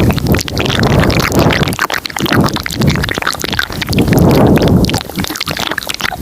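Layered ASMR mouth sounds close to the microphone: a dense run of wet clicks and smacks, with low rumbling swells about every second and a half.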